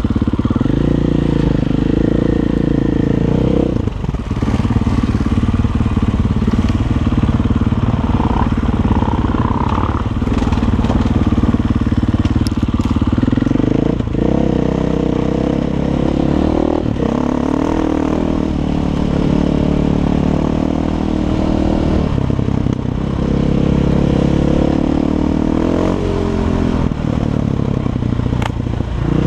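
Six Days 500 enduro motorcycle's single-cylinder four-stroke engine running through an Akrapovič exhaust while under way, its note stepping up and down several times with the throttle.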